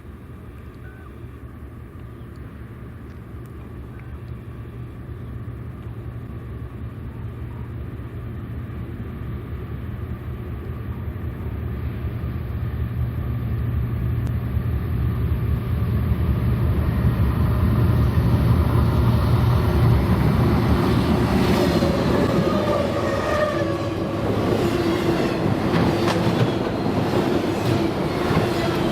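Freight train approaching: the diesel locomotives' low rumble grows steadily louder. From about twenty seconds in, the wheels' clatter on the rails joins in, with some thin high tones, as the train passes.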